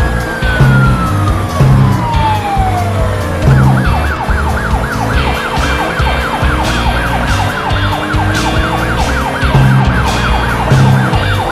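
Cartoon siren sound effect: one long tone falling in pitch over about three seconds, then a fast repeating yelp, about three rising sweeps a second. It plays over background music with a steady low bass pattern.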